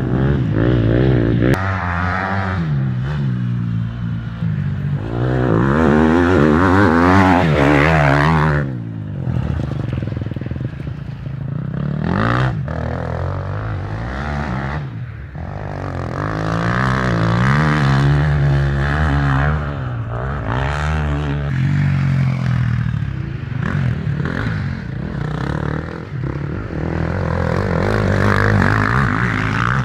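Motocross motorcycle engines revving up and down as the bikes race past, the pitch rising and falling with each throttle change. They are loudest about six to eight seconds in, then drop sharply and build again.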